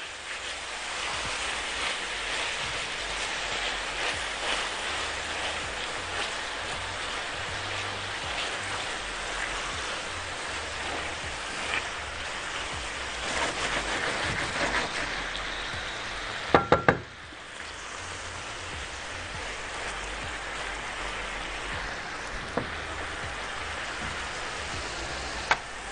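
Diced tomatoes, bell peppers and pastrami frying in ghee in a stainless steel pan, a steady sizzle as a spatula stirs them. Two sharp knocks come about two-thirds of the way through, and the sizzle is a little quieter after them.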